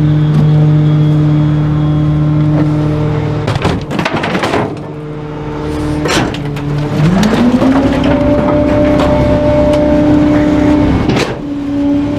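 Trash truck engine running steadily, then revving up about seven seconds in and holding at the higher speed. Several sharp knocks and bangs break through, the loudest around four seconds in.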